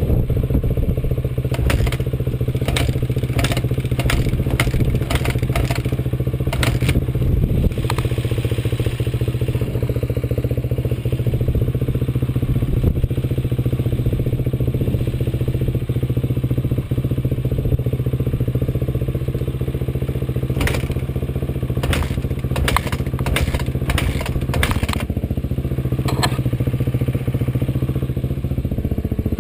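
Off-road vehicle engine running steadily during a ride, with two spells of rapid clattering knocks, a couple of seconds in and again about twenty seconds in.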